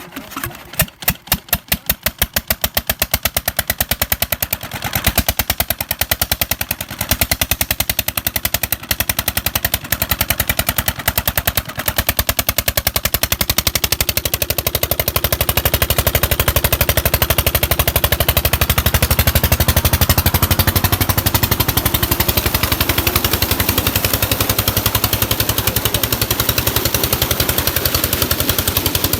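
An old diesel engine driving a water pump fires up: its exhaust beats start out slow and spaced, pick up speed over the first few seconds, then settle into a fast, steady run.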